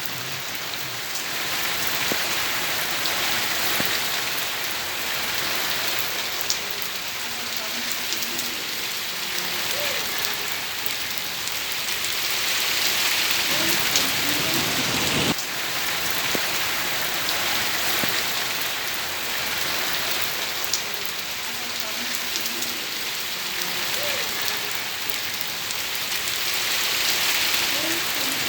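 Steady rain falling and splashing on hard surfaces, with a few sharper single drips standing out now and then.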